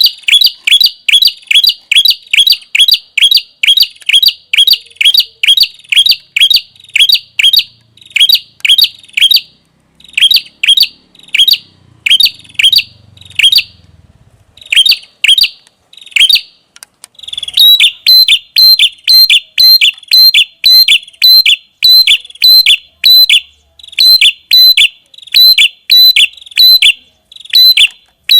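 Prenjak kepala merah calling incessantly: a long series of loud, sharp, high chip notes, about two to three a second, with a short break in the middle before the series picks up again.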